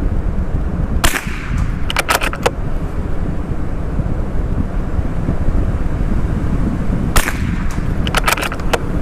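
Two shots from a CZ457 .22LR bolt-action rifle, about six seconds apart, each followed about a second later by a quick run of clicks as the bolt is worked to chamber the next round. Heavy wind buffets the microphone throughout.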